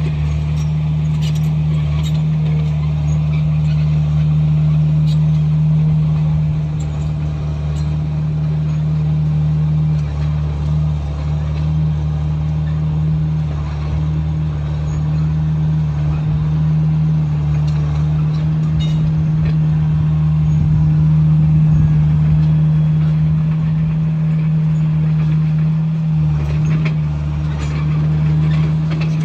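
Komatsu bulldozer's diesel engine running with a steady low drone, with a few faint clicks and clanks over it.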